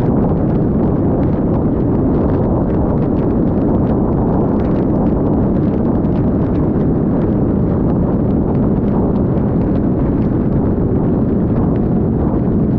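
Steady rush of wind buffeting a helmet- or bike-mounted action camera on a moving scooter, with irregular ticking of raindrops striking the camera.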